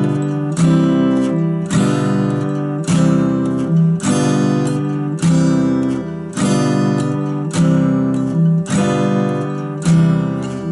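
Acoustic guitar strummed in a slow, even rhythm, about one strum every second and a bit, switching back and forth between G7 and C chords, two strums on each chord.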